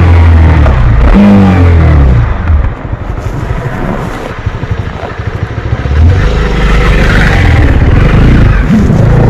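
Honda CB300R's single-cylinder engine on a ride: the revs rise and fall about a second in, the throttle is eased off and the engine runs quieter for a few seconds, then it is opened up again about six seconds in and the revs climb near the end.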